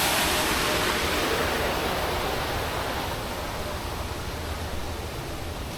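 Steady rushing of falling water, gradually fading.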